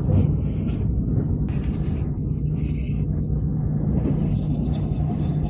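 Electric limited express train running, a steady low rumble with a constant low hum, heard inside the passenger cabin.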